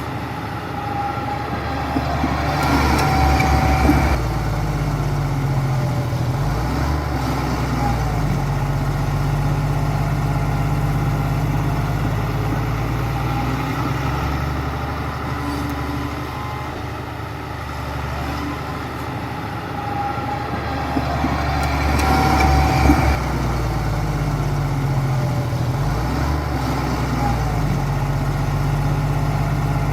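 Heavy diesel engine of a bulldozer working, running steadily with changes in load, and louder about three seconds in and again about twenty-two seconds in.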